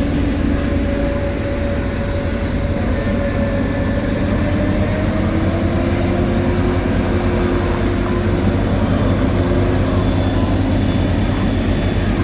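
Heavy diesel road-construction machinery running steadily with a deep rumble and a whine that shifts slightly in pitch partway through.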